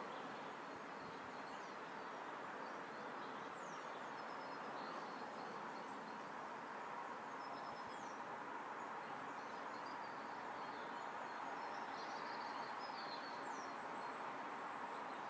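Small birds chirping and trilling, short high calls every couple of seconds, some falling quickly in pitch, over a steady background hiss of outdoor noise.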